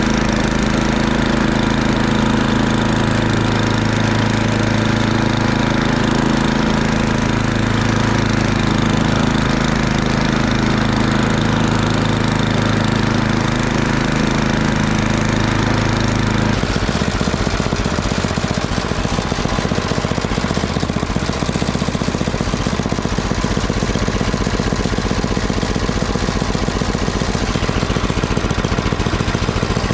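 Murray Ultra 8/27 snowblower's 8 hp single-cylinder engine running steadily while blowing snow; about halfway through its steady note turns rougher and more uneven.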